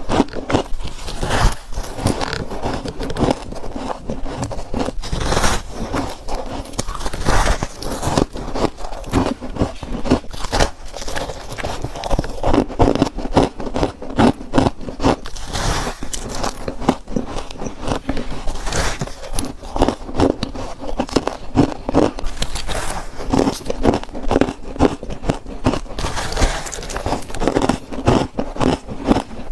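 Close-miked biting and chewing of freezer frost chunks coated in fresh soft frost: a continuous run of crisp crunches and scraping crackles, several a second.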